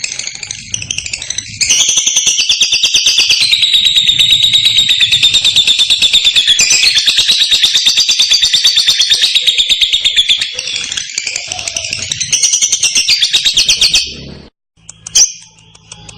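Lovebird's 'ngekek': one long, loud, rapid chattering trill of shrill high notes. It holds for about fourteen seconds and then breaks off suddenly, with one short chirp after a brief pause.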